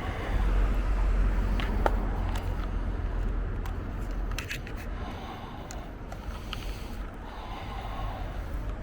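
Steady low outdoor rumble with a few scattered light clicks.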